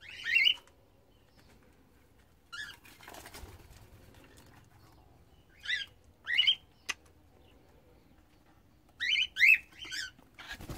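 Cockatiels giving short chirping calls a few seconds apart, with three in quick succession near the end. There is a soft rustle around three seconds in.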